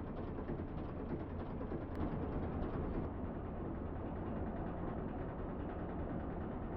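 Mack AMI-370 diesel engine of a dump truck idling steadily, a low even rumble.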